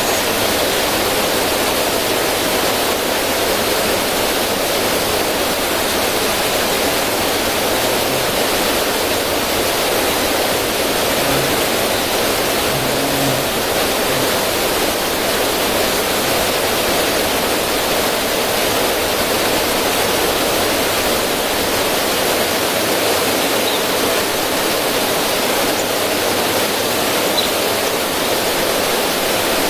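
River current splashing over rocks in a small cascade: a steady rushing of water.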